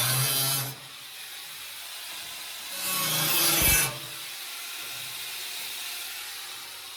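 Workshop tool noise during sheet-metal body repair: a tool running with a steady hum that stops under a second in, then a second loud, noisy scraping burst of about a second around the middle, with faint hiss between.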